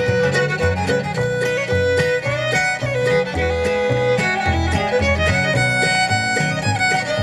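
Bluegrass band's instrumental break: a fiddle plays the melody in long, sliding notes over rhythm guitar and bass notes on a steady beat.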